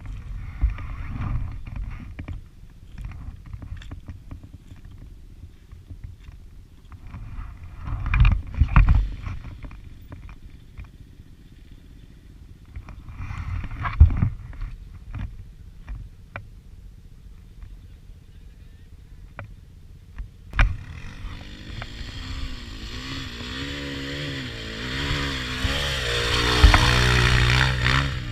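Motorcycle engine running low with a few sharp knocks and clunks, then revving up and down and getting louder over the last several seconds.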